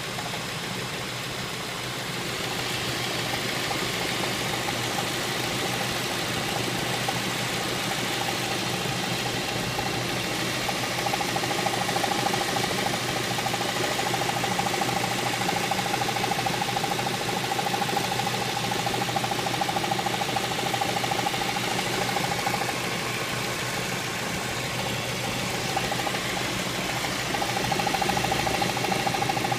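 Audi A4 2.0 TFSI (225 hp) engine running steadily with an intrusive extraneous tone like blowing across a bottle. The tone comes in about a third of the way through, fades a little after two-thirds and returns near the end.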